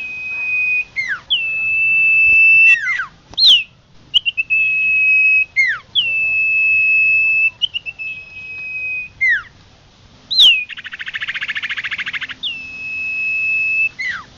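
Common iora (cipoh) singing, as played for a bird lure: long, steady, clear whistles, each ending in a quick downward slur, repeated about every one and a half seconds. About two thirds of the way through comes a rapid buzzing rattle lasting over a second.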